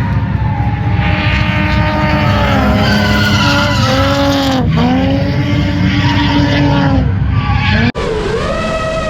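A drifting car: the engine revs rise and fall over a continuous skid of the tyres. About a second before the end the sound cuts out abruptly and gives way to a wavering tone.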